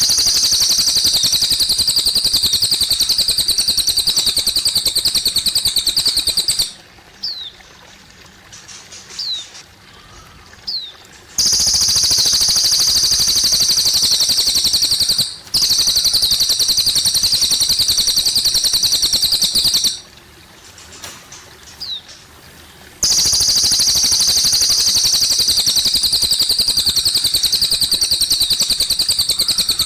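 Cililin bird singing four long, very rapid, high-pitched trills of several seconds each, with a few short falling chirps in the pauses between them. A steady trickle of water runs underneath.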